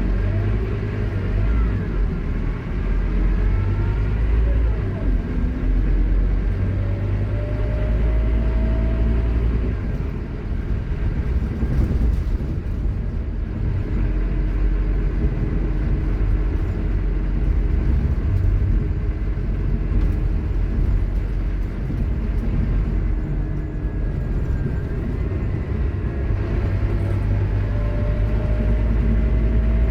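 Scania K230UB Omnilink bus running with a constant low engine drone. Its ZF Ecomat automatic gearbox whines loudly, the whine rising in pitch as the bus accelerates, once about seven seconds in and again near the end.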